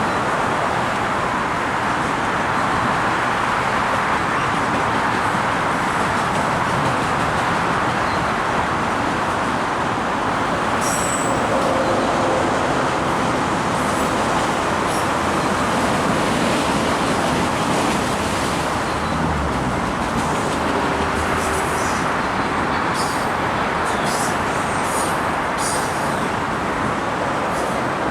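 Train rolling past at the station: a steady, loud rolling noise with short high-pitched squeaks and clicks in the second half.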